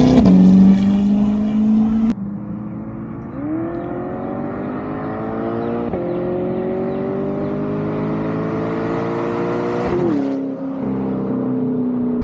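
C8 Corvette V8 through an aftermarket center-exit track exhaust: a rev drops to a steady idle, then after an abrupt cut about two seconds in the engine is brought up and held at slowly climbing revs for about six seconds before dropping back to idle near the end.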